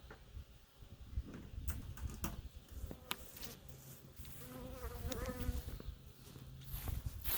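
Honey bees buzzing near the microphone; one flies close about four to five seconds in, its buzz wavering in pitch as it passes. Scattered light clicks and a low rumble underneath.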